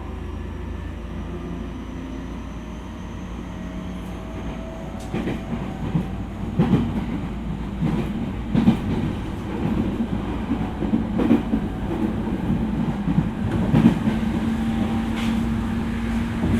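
JR E231 series commuter train under way, its traction motors' whine rising in pitch as it picks up speed. From about five seconds in, the wheels knock over rail joints in a repeating clickety-clack over a steady rumble.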